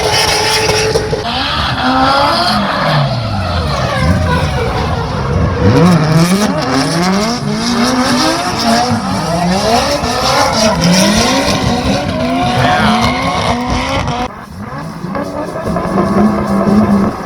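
Drift cars sliding in tandem: at least two engines revving up and down again and again as the throttle is worked mid-slide, over the hiss and squeal of spinning tyres. There is a short drop in level near the end, then a steadier engine note.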